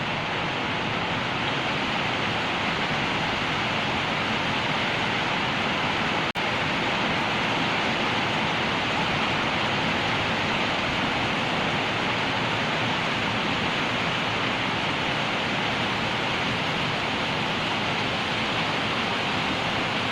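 A steady, even rushing noise with no rhythm or tone, briefly dipping about six seconds in.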